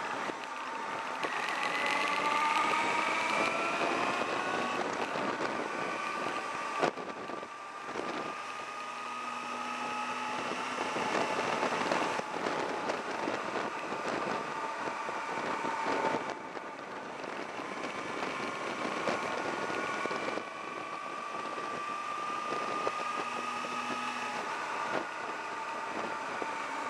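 Motorcycle engine under way, its note climbing under throttle and falling back about every four seconds, with a sharp click about seven seconds in. Wind rushes over the microphone throughout.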